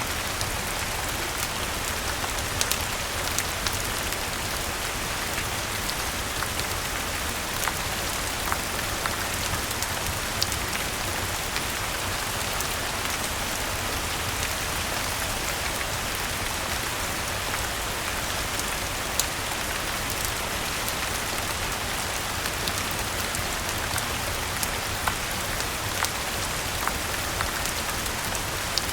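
Steady rain falling on a surface, an even hiss with scattered sharp ticks of individual drops standing out every second or two.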